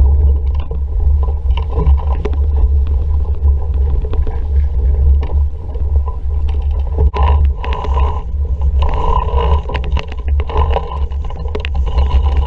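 Wind buffeting the microphone in a heavy, uneven low rumble on a sailing dinghy under way in a breeze, with water rushing and splashing against the hull. Scattered clicks and knocks are mixed in, and the water noise grows louder about halfway through.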